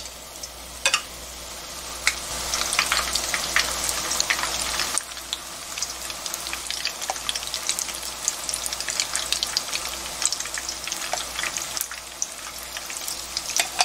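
Batter-coated banana pieces deep-frying in shallow hot oil, a dense crackling sizzle, with a few sharp clicks in the first couple of seconds. The sizzle grows louder as more pieces go into the oil, then settles a little lower about five seconds in.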